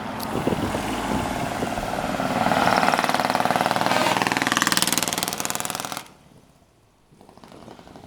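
Truck engine with a loud open split-manifold exhaust running hard as it drives past, a rapid pulsing note that rises in pitch and then holds. It cuts off suddenly about six seconds in, leaving faint outdoor background noise.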